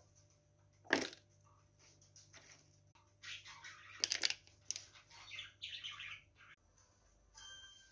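Pet bird chirping and fluttering in a busy patch from about three seconds in, with a sharp tap or knock about a second in.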